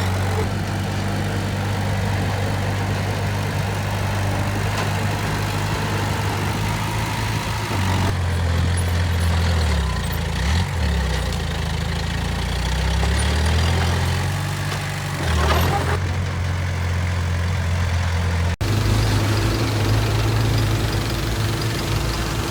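Heavy diesel engine of a construction machine running, with its engine speed dropping and picking up again several times in the middle. There is a sudden break about three-quarters of the way through, after which the engine runs steadily.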